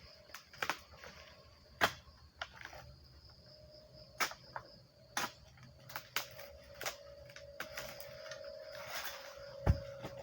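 Irregular sharp knocks and clicks from oil palm harvesting work, with one heavy thud about nine and a half seconds in, over a steady insect drone.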